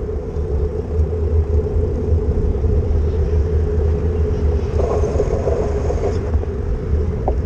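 Wind buffeting the microphone on a moving bicycle, a steady low rumble with a constant hum over it, with a short swell of louder traffic-like noise about five seconds in.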